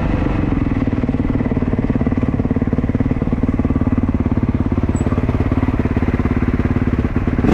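Motocross dirt bike engine running steadily at a low, even speed.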